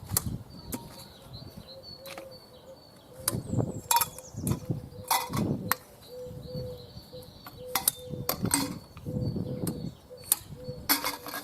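Irregular clicks and knocks of the Kayacat's parts being pulled apart and handled, with birds chirping in the background and a faint steady hum.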